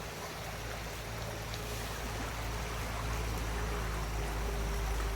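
River water flowing: a steady, even rush of water with a heavy low rumble underneath.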